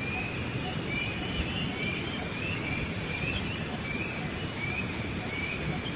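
A bird repeats a short rising chirp about every two-thirds of a second over steady, high-pitched insect trilling, with a low background rumble.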